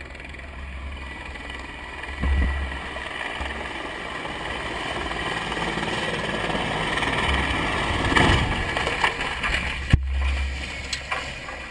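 Helicopter running, a steady turbine whine over rotor rumble, growing louder for most of the stretch, with one sharp knock about ten seconds in.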